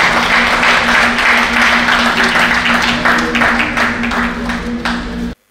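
Audience applauding in a hall, a dense patter of many hands clapping over a steady low hum, easing slightly and then cut off suddenly near the end.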